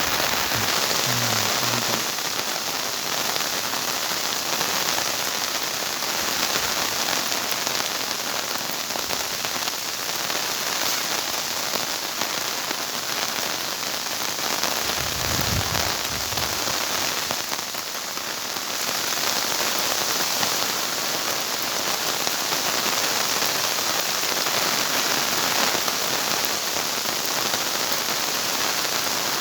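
Steady rain falling, an even continuous hiss, with two brief low sounds: one near the start and a longer one about halfway through.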